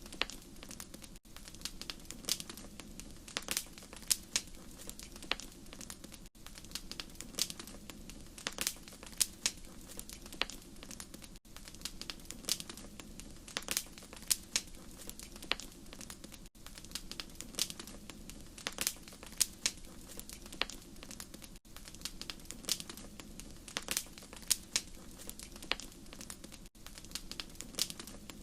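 Wood fire crackling: frequent sharp pops and snaps over a steady low rumble of flames. A brief dropout about every five seconds shows it is a short recording looped.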